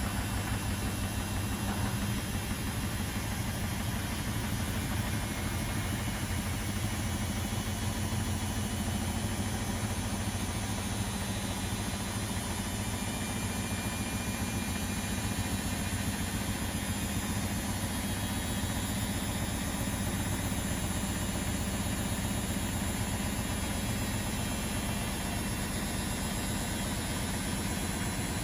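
Domestic washing machines and tumble dryers running: a steady, even machine hum and drum rumble with no change in pace.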